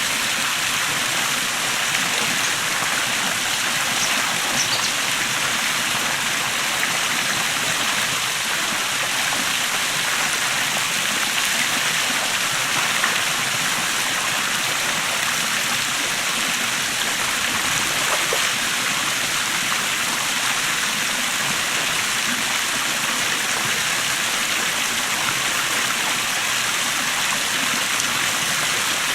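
Small waterfall, water running and splashing steadily over rocks.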